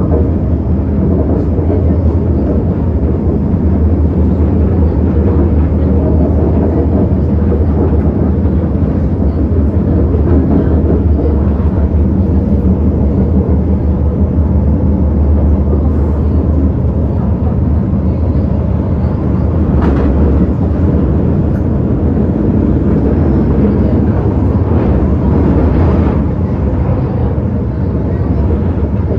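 Interior running noise of a Metro-Cammell M-Train electric multiple unit under way: wheel and track rumble with a steady low drone. The drone drops away about two-thirds of the way through.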